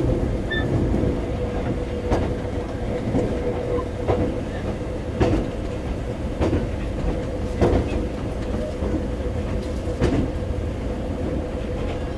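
Taiwan Railway EMU400 electric multiple unit running at speed, heard inside the passenger car: a steady low rumble with a constant hum. The wheels click over rail joints a little more often than once a second.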